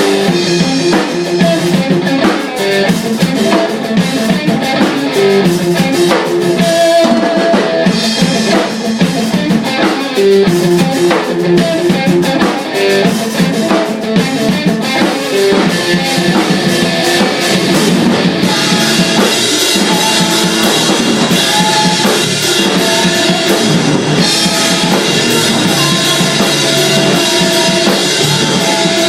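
Rock band playing: a drum kit with bass drum and rimshots under guitar, the sound getting fuller and brighter about two-thirds of the way through.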